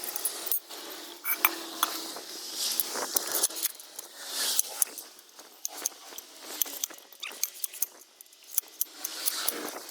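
Metal tools clinking and rattling against each other in many sharp, irregular clicks, the sound of tyre-changing gear being handled.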